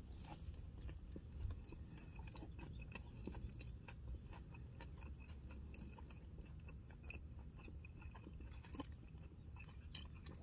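Faint chewing of a bite of breaded chicken slider with pickle: scattered small mouth clicks over a low steady hum.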